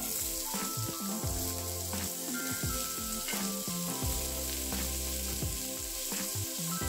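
Diced onion and grated carrot sizzling in hot oil in a frying pan, stirred with a spatula; the sizzle starts as the onion drops in. Background music plays over it.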